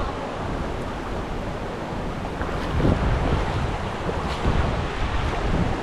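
Rushing river water, a steady loud rush, with wind buffeting the microphone.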